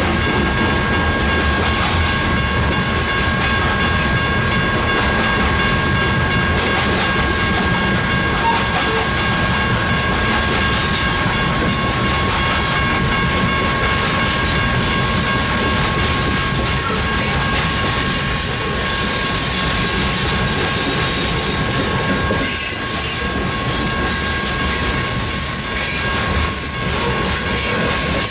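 Coal train hopper cars rolling past on steel rails, a steady rumble and clatter of wheels with a continuous high-pitched wheel squeal.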